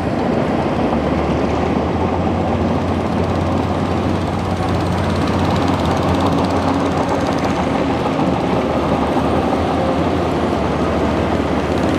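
Bulldozer's diesel engine running steadily under load, a constant low hum with dense clattering noise over it.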